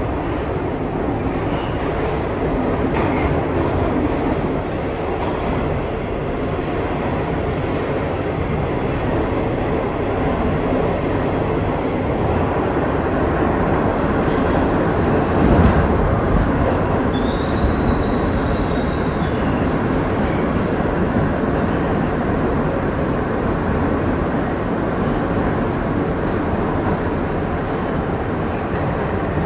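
Kawasaki R62 subway train running on the rails: a steady rumble of wheels and car noise. About halfway there is a loud thump, followed by a short high squeal.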